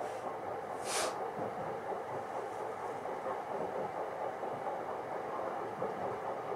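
Running noise of an E233-3000 series electric train heard from inside the passenger cabin: a steady rumble of wheels on the rails, with a brief hiss about a second in.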